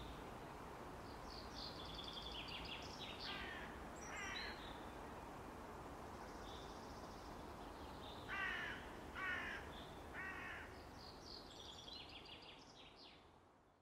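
Birds calling outdoors over a faint background hiss: bursts of high chirping and several short harsh calls, the loudest of them in the second half. The sound fades out near the end.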